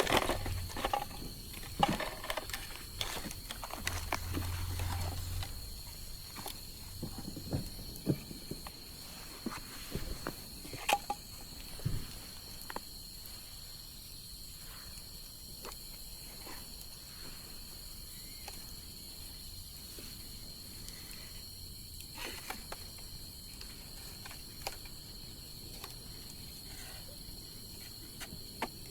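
Wood bonfire crackling, with sharp snaps and pops that come thickly in the first dozen seconds and then thin out. A steady high insect trill runs underneath.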